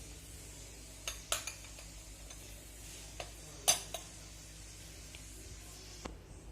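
A spoon clinking against a salad bowl a handful of times, in uneven taps, while the salad is tossed and mixed. The loudest clink comes just under four seconds in.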